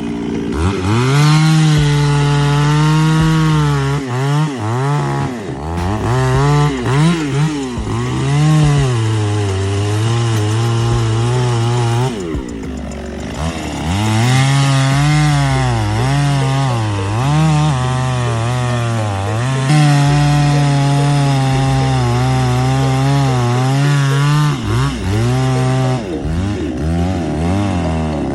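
Petrol chainsaw cutting wood, its engine pitch repeatedly dropping as the chain bites into the cut and rising again as it frees up. It eases off briefly twice, about halfway through and near the end.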